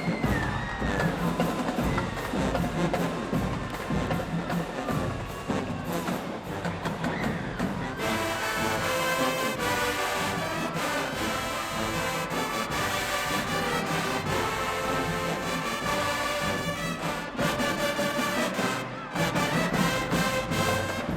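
High school marching band playing: drumline percussion for the first several seconds, then the horns come in with held chords about eight seconds in, and the drums come back to the fore near the end.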